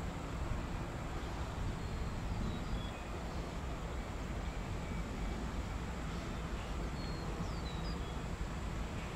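Steady low outdoor rumble with no clear pitch, with a few faint bird chirps high above it.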